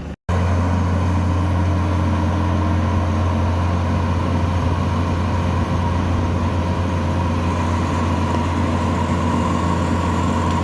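Combine harvester engine running steadily and loudly at constant speed, with a strong low drone. A brief dropout to silence right at the start.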